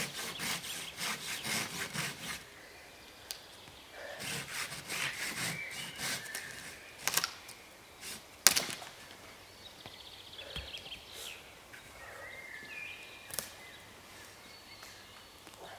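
Hand saw cutting through wood in fast strokes, about four a second, stopping after about two seconds. Then a few scattered sharp knocks or snaps, the loudest a little past the middle.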